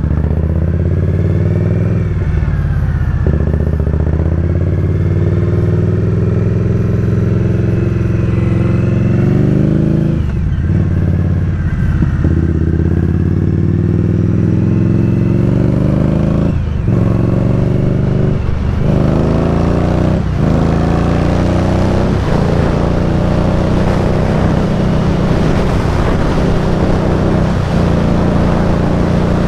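Indian Scout Bobber's V-twin engine under way, climbing in pitch as it accelerates, with short dips at gear changes, several of them between about 10 and 20 seconds in. Wind noise on the microphone grows toward the end as speed builds.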